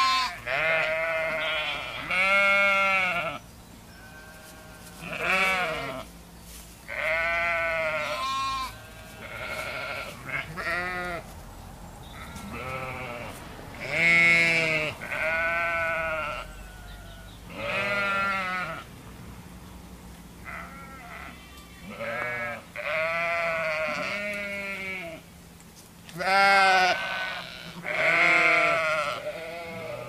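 Sheep bleating: a flock's repeated calls of varying pitch, one every second or two, many with a quavering tremble.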